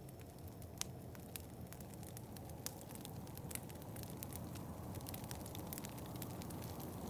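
Wood fire crackling, with irregular sharp pops over a steady low rush of wind that swells a little near the end.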